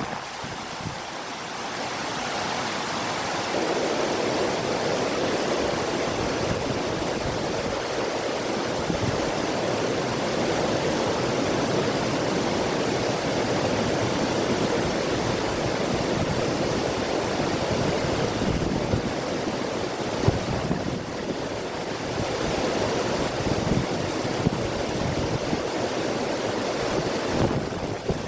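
River water rushing, with wind blowing through it: a steady rush that grows a little louder in the first few seconds and then holds.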